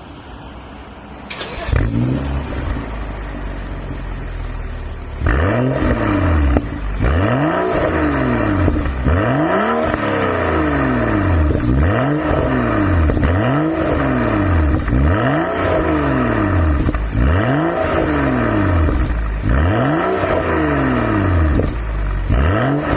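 BMW 435i's turbocharged straight-six through a Bastuck aftermarket exhaust, starting about a second and a half in and settling to idle. From about five seconds it is blipped over and over, the pitch rising and falling roughly every second and a half.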